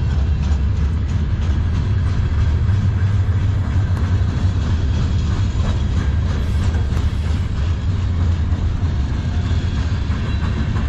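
Freight cars of a passing manifest train rolling by close: a steady, loud, deep rumble of wheels on rail with scattered clicks.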